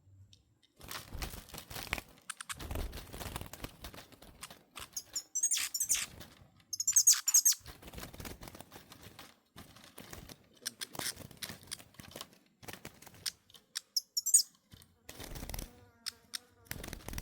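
A small songbird giving high, quick chirping trills, twice about five to seven seconds in and once more near the end. Around them run irregular rustling, knocks and wing fluttering.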